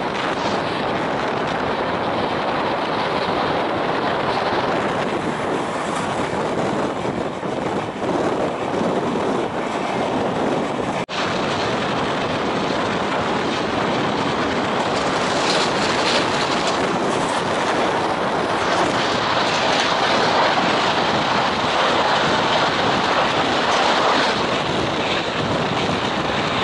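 Indian express passenger train running at speed, heard from an open coach door: a steady, loud rumble of wheels on rail mixed with rushing wind, while another train's coaches pass close alongside at first. The sound breaks off for an instant about eleven seconds in, and the hiss grows brighter in the later part.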